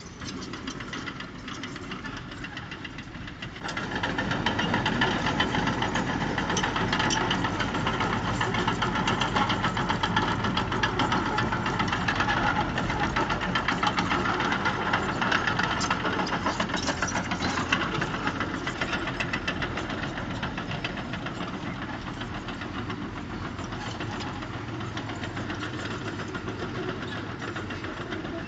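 Diesel engine of heavy earthmoving machinery (bulldozer or dump truck) running with a rapid clatter. It gets suddenly louder about four seconds in, as if put under load, and eases off again past the middle.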